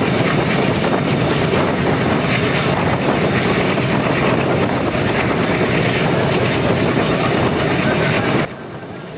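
Steady rushing noise of a moving passenger train heard from on board, with wind buffeting the microphone. The noise drops abruptly about eight and a half seconds in.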